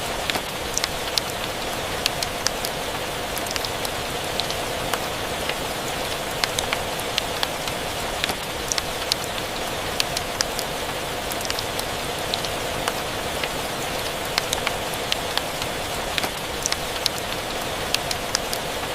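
Steady rain mixed with a crackling fireplace: an even hiss with many sharp, irregular ticks and pops.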